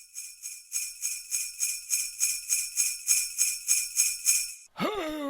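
Jingle bells shaken in a steady rhythm, about three shakes a second, stopping shortly before the end, where a deep voice begins.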